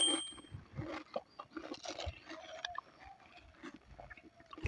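Faint, irregular crunching and chewing as crisp panipuri shells are bitten and eaten.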